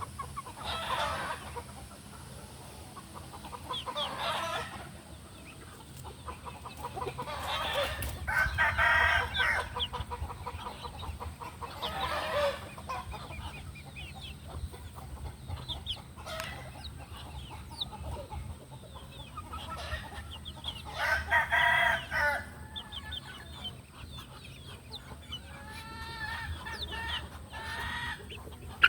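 Gamefowl roosters crowing again and again, one crow after another every few seconds, with clucking in between.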